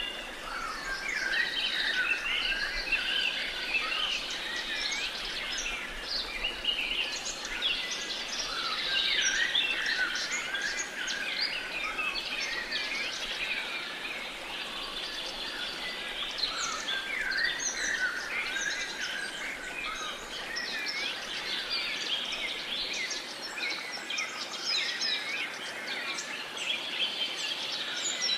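Dense chorus of many songbirds chirping and singing at once: short, overlapping high chirps and quick sweeping notes, over a steady background hiss.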